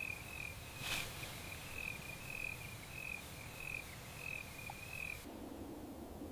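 Faint night ambience: a high, pulsing trill of a calling night creature, repeated in short phrases, with one sharp click about a second in. The trill cuts off abruptly about five seconds in, leaving a faint low hiss.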